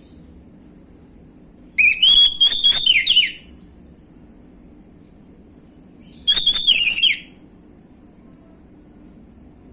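Orange-headed thrush singing two loud whistled song phrases, one about two seconds in and a shorter one about six seconds in, each opening with a rising note and running on in quick high whistles.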